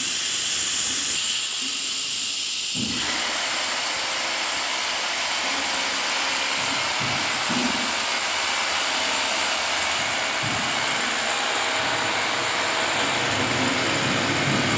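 A steady, loud hiss of machinery, which fills out to a fuller sound about three seconds in, with a few faint low thuds.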